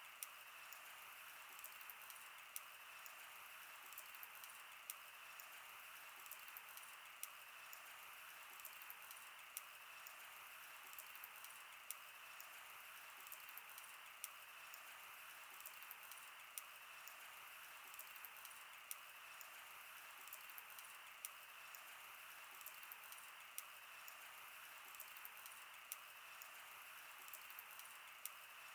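Wood fire burning: a steady faint hiss with irregular sharp crackles and pops of the burning wood, several each second.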